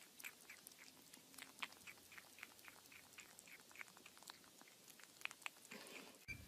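Faint, quick crunching clicks, about four a second, of an animal chewing. About six seconds in, it cuts to a louder, low noise.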